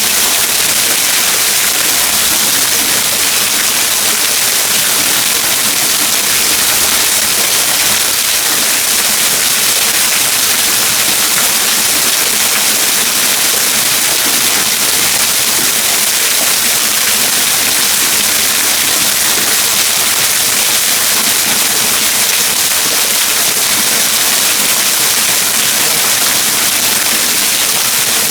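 Waterfall: falling water rushing in a loud, steady, unbroken hiss.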